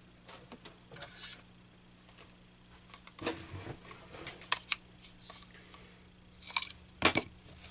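Fabric scissors snipping off excess fabric, a few scattered cuts with sharp clicks of the blades and handling, the loudest a little past halfway and near the end.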